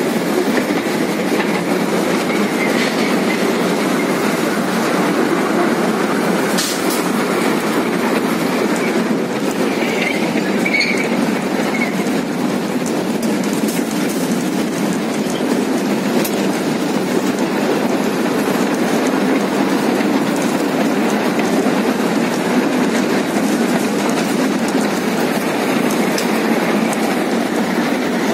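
Small amusement-park train running along its narrow track, heard from aboard a carriage: a steady, even rumble and rattle of wheels and cars, with a few faint brief squeaks about ten seconds in.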